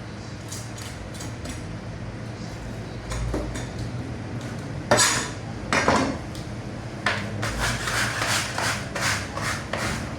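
Metal utensils and trays clattering and knocking, with two louder knocks about halfway and a run of quick rattling clicks after them, over a steady low hum.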